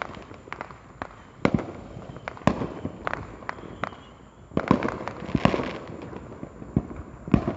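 Fireworks set off all around, going off in a string of irregular sharp bangs and pops, some near and some farther away. A denser cluster of bangs and crackling comes a little past halfway.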